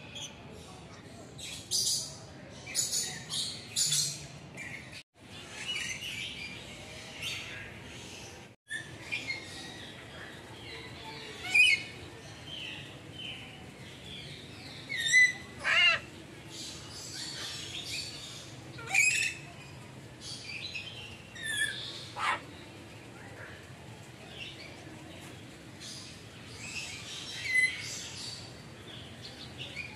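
Birds calling: many short chirps and squawks overlapping, with several louder sharp calls now and then, one a quick wavering call falling in pitch about halfway through.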